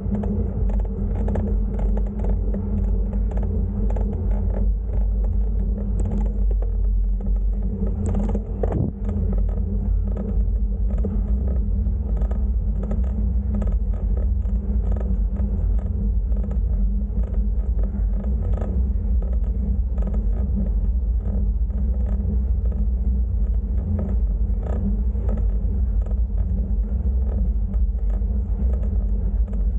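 Bicycle being ridden on a road: a steady low rumble with frequent small creaks and rattles.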